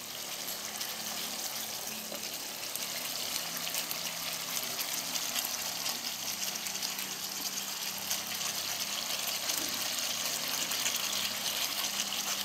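Spiced yogurt masala sizzling in hot oil in a kadai, a steady hiss that grows a little louder toward the end as fried potatoes are added and stirred in with a wooden spatula.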